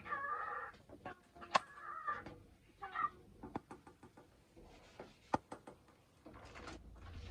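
Cockatiel chattering in short warbled bursts, three of them in the first three seconds. Two sharp taps, one about a second and a half in and another near the end.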